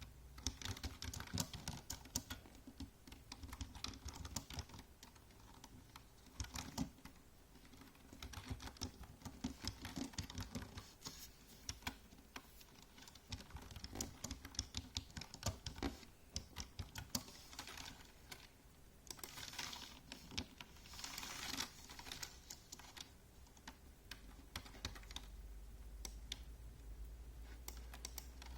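Typing on a computer keyboard: quick runs of key clicks in bursts with short pauses, thinning out near the end.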